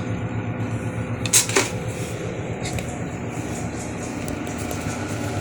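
Panasonic 7 kg top-load automatic washing machine running with a steady low hum and light clicks, with one sharper knock about one and a half seconds in. The machine has just been repaired for a metallic grinding noise and is running okay.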